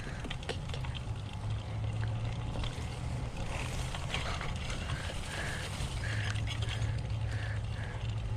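Bicycle riding along a muddy trail: tyres rolling and crackling over wet ground with rattling clicks, over a steady low rumble on the microphone. Short high chirps recur throughout.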